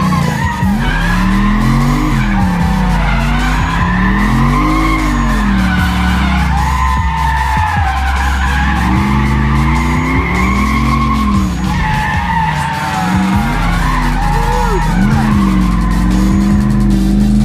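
Turbocharged LS V8 in a Lexus IS300 drift car revving up and falling back again and again as the car drifts, with tyre squeal that runs over the engine and wavers with it.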